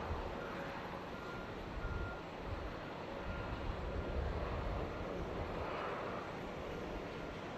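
Steady rumble and roar of distant jet airliner engines, with faint short high beeps repeating through it.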